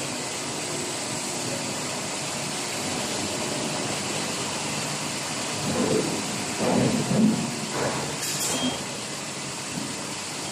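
Injection molding machines running on a factory floor: a steady, even hiss. A few louder uneven sounds come about six to seven seconds in, and a brief high hiss follows near eight and a half seconds.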